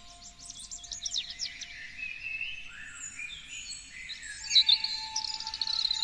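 Several songbirds singing together: a quick run of falling notes about half a second in, slurred whistles through the middle, and a loud, rapid trill starting near the end.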